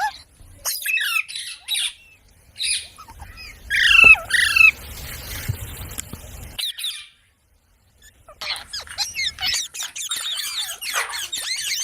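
Pet parrot squawking and chirping: short harsh calls, a loud falling squawk about four seconds in, a brief silence, then a fast run of chirps and chatter near the end.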